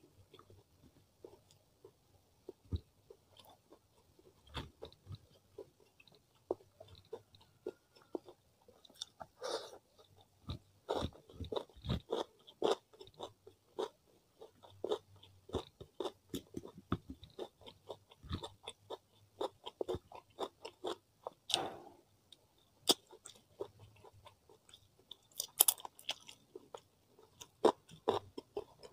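A person chewing grilled chicken and rice eaten by hand, close to the microphone: a string of irregular short clicks and smacks, busier from about ten seconds in.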